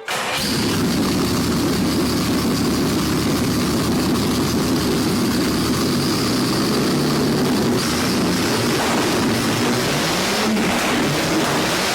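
Ferrari Daytona SP3's V12 engine running loudly after start-up, coming in suddenly, with the revs climbing briefly near the end.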